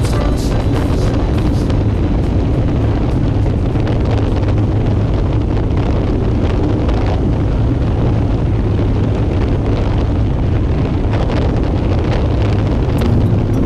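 Heavy, steady wind noise buffeting the microphone: a constant low rumble with no break.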